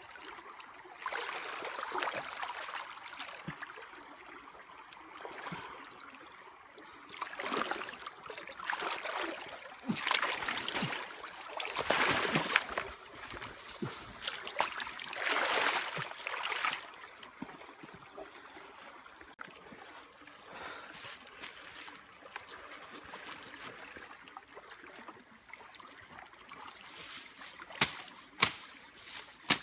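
Water splashing and trickling in uneven bursts through the first half, then quieter. Several sharp knocks come near the end.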